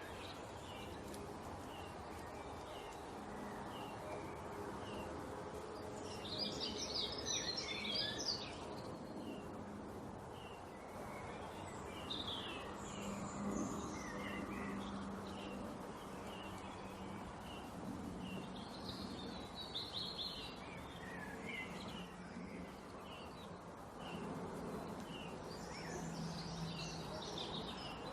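Small birds chirping and singing over a steady background hum: a run of short repeated chirps, with quicker bursts of high twittering song several times.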